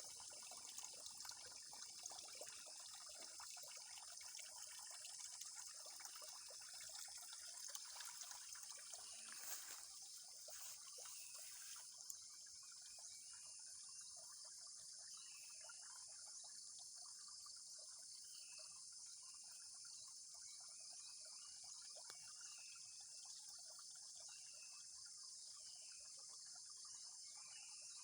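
Faint forest ambience: a steady, high-pitched drone of insects with water trickling over it, the trickle stopping suddenly about halfway through. After that, short chirps repeat every second or two over the insect drone.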